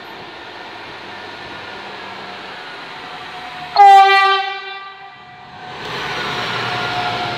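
Trenitalia ATR 220 diesel multiple unit running in with a steady engine and rail noise, and one loud horn blast about four seconds in that dies away over about a second. The engine and wheel noise then swells as the unit runs past close by.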